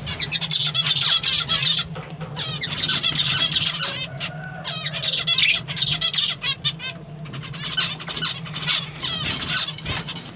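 Many small cage birds chirping and twittering at once: finches and lovebirds kept together, with the finches' calls the loudest. A steady low hum runs underneath.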